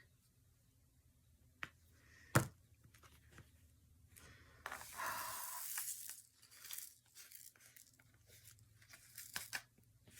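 A sharp tap, then about a second and a half of crinkling, tearing plastic near the middle, with scattered small clicks and rustles around it.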